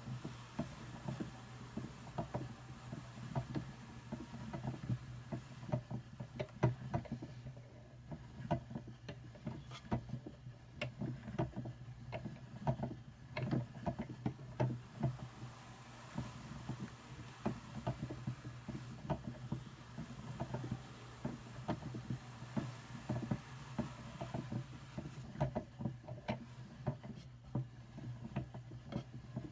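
Hand-cranked Brother drum carder with fine carding cloth combing Targhee wool, the drums turning with a dense, irregular run of soft clicks and rustles over a steady low hum.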